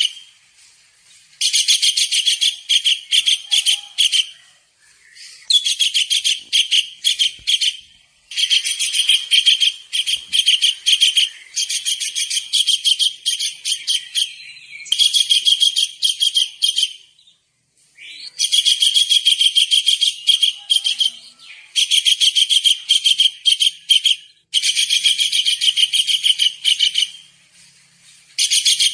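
Kingfisher (tengkek udang) calling: fast strings of high, sharp repeated notes in phrases two to three seconds long, separated by short pauses, about eight phrases in all.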